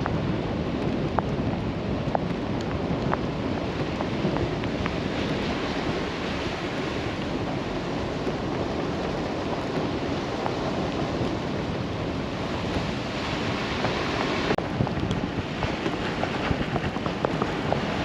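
Chevrolet Colorado ZR2 Bison driving slowly in four-wheel drive on a wet gravel road: a steady rumble of tyres and road noise with scattered small ticks of gravel.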